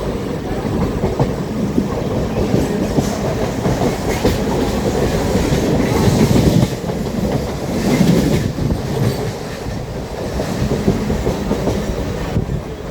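Mumbai suburban electric local train running at speed, its wheels clattering over the rail joints, with louder swells about six and eight seconds in.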